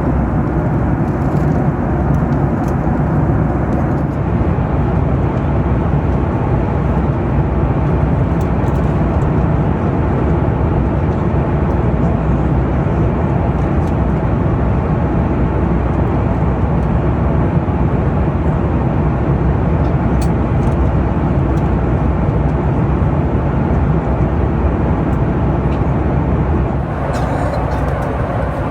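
Steady jet-engine and airflow roar inside the cabin of a Boeing 737-9 MAX airliner. The roar shifts slightly in tone and level near the end.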